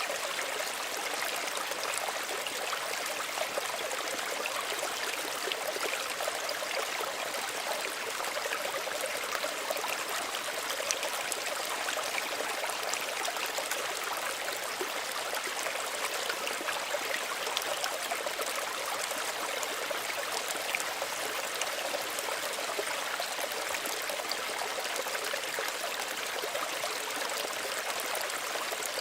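Small stream running steadily over stones, an even gentle rush of water with fine trickling and splashing.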